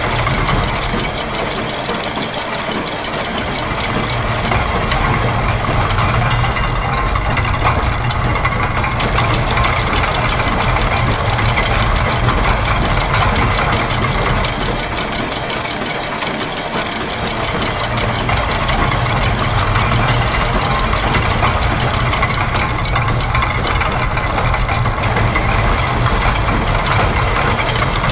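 Layered loops of factory machine sounds, with gears, a press, clockwork, a ratchet and a sewing machine, making a dense, continuous mechanical clatter over a low engine-like hum. The higher clatter drops away briefly twice.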